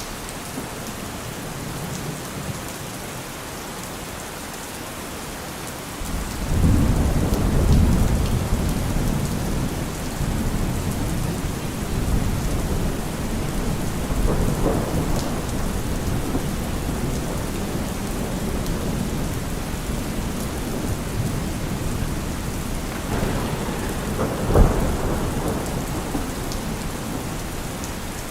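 Heavy rain drumming steadily on a car roof, with thunder: a deep rumble rolls in about six seconds in and keeps rumbling, and a sharper clap comes near the end.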